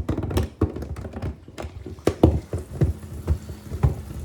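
A calculator tumbling in the drum of an LG WM6700HBA front-load washing machine during the wash, knocking against the drum in irregular taps about two to three times a second.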